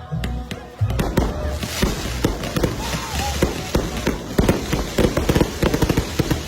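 A multi-shot fireworks cake firing a rapid string of bangs and crackles that comes thicker toward the end, with music underneath.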